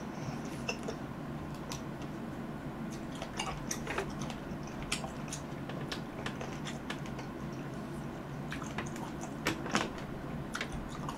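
Close-miked chewing of fresh cherries: wet, squishy bites and scattered mouth clicks and smacks, over a steady low hum.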